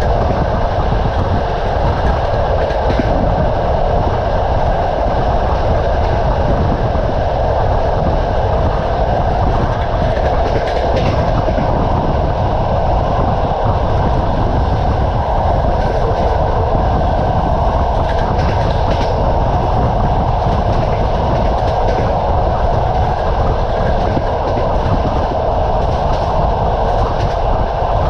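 Passenger train wheels running on the rails: a steady rumble and clatter with occasional sharper knocks over rail joints, heard from the moving train.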